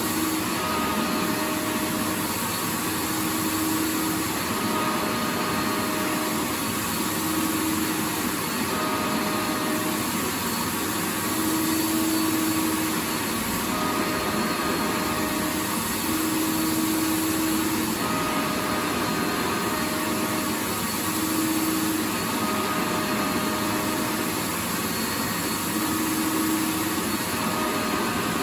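Vacuum cleaner motor running steadily: a continuous rush of air with a faint motor hum that wavers in and out every second or two.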